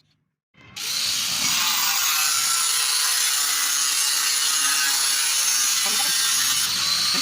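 A power tool running steadily and loudly, starting abruptly less than a second in.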